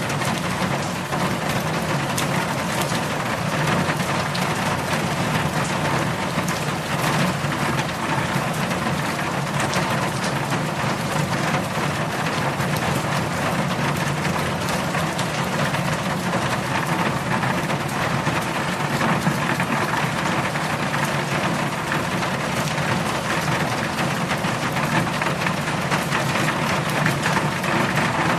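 Heavy rain falling steadily: a dense, even hiss with many close individual drop impacts, over a steady low rumble.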